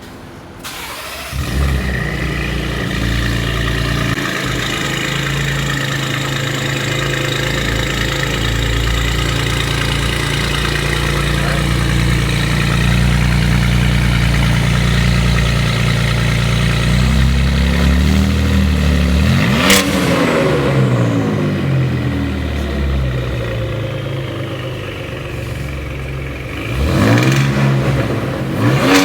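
2017 Ford Raptor's 3.5 L twin-turbo V6 starting up and idling through an aftermarket exhaust: a Borla S-Type cat-back with Kooks downpipe and Twister race pipes on the X-pipe. It is blipped a few times in the second half, the pitch rising and falling with each rev.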